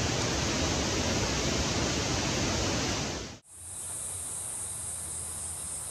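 Strong wind rushing over the microphone. About three and a half seconds in it cuts off abruptly to a quieter background with a steady high-pitched insect buzz.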